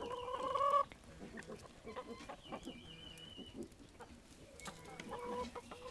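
Chickens calling: a drawn-out, slightly rising call in the first second, a high wavering trill a couple of seconds in, and another short held call near the end, over faint scattered clicks and scuffs.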